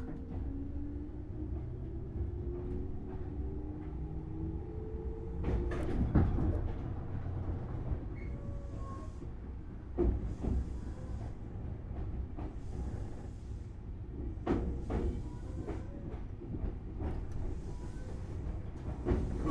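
Tobu 6050-series electric train, heard from inside a resistor-controlled motor car. At first the traction motor whine rises in pitch as the train accelerates; it fades after about five seconds, leaving a steady wheel rumble. Sharp knocks come every few seconds.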